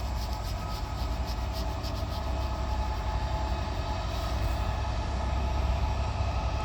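A train running past: a steady low rumble with a few steady whining tones, and quick regular clicks during the first couple of seconds.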